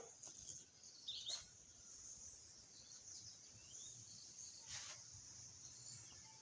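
Near silence: faint room tone with a short, faint high chirp about a second in and a soft tap near the end.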